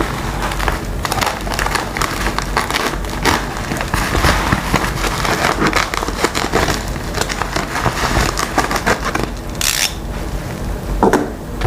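Packaging being torn open and handled: a continuous irregular crackle and rustle, with a short hiss about ten seconds in.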